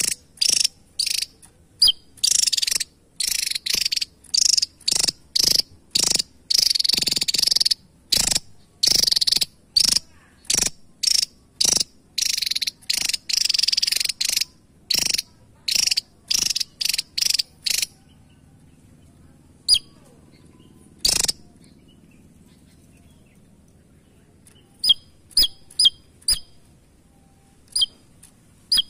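Javan tesia singing: rapid runs of sharp, high chips and buzzy notes, packed close together for the first two-thirds, then thinning to scattered single sharp notes.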